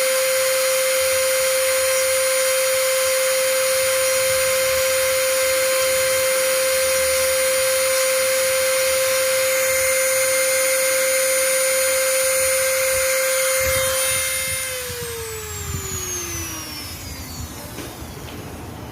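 Small electric motor running with a steady high whine, then switched off about two-thirds of the way through and winding down, its pitch falling over a few seconds.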